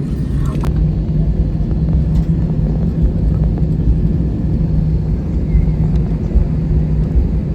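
Steady low rumble and hum inside the cabin of an Airbus A320-214 on the ground after landing, with one sharp click about half a second in.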